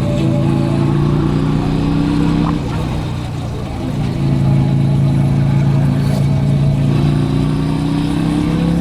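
Motorcycle engine pulling under throttle, its pitch slowly rising. It eases off about two and a half seconds in, then picks up and climbs steadily again.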